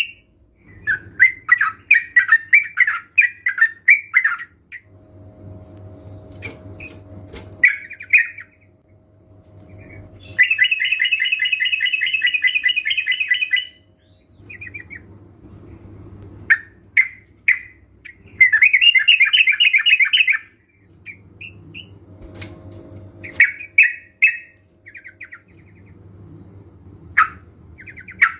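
Sooty-headed bulbuls calling: short bubbly notes and several dense, chattering runs of two to three seconds each, over a faint low hum.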